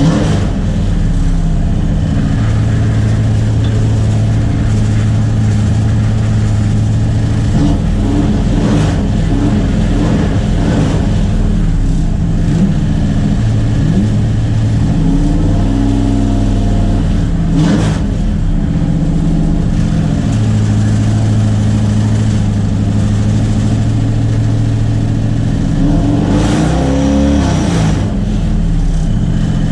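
Ford 302 Windsor V8 in a race car idling fast with a steady low note, with brief rises and falls in engine speed around the middle and near the end. The idle is set too high.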